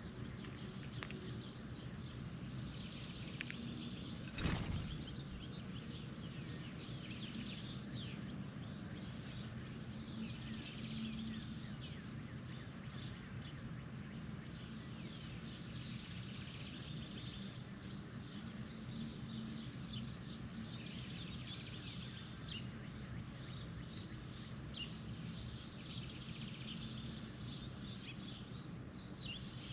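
Many birds chirping over one another without a break, over a steady low background hum. A single short, louder noise comes about four and a half seconds in.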